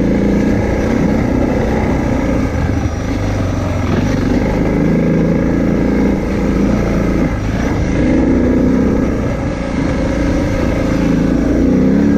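Motorcycle engine running as it is ridden, its revs rising and falling repeatedly.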